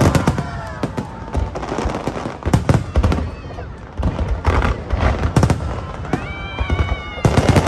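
Aerial fireworks bursting: a rapid, irregular string of loud bangs and crackles, coming in clusters that are heaviest near the start, in the middle and again near the end.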